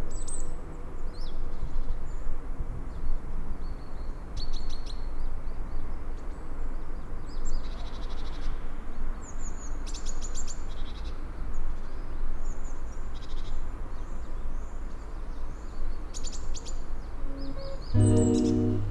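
Birds chirping in short, scattered calls and trills over a steady low outdoor rumble.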